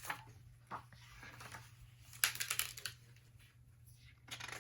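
Pages of a paperback picture book being handled and turned: a brief paper rustle about two seconds in, with a few small clicks around it, over a faint steady low hum.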